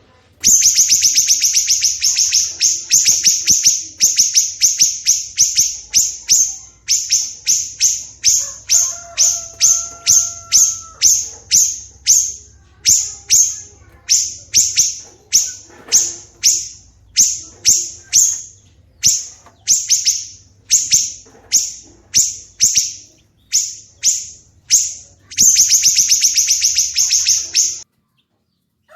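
A songbird repeating a harsh, rasping call note about twice a second, with rapid chattering runs near the start and near the end before it cuts off. A brief clear whistle from another bird sounds about a third of the way in, over a low steady hum.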